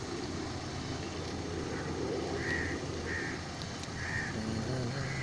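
A car's engine running steadily with a low hum, while short high calls repeat about once a second from partway in.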